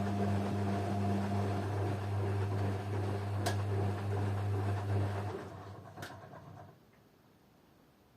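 Washing machine running with a steady motor hum, then winding down and stopping about five to seven seconds in, leaving near silence. Two sharp clicks sound, one midway and one as it winds down.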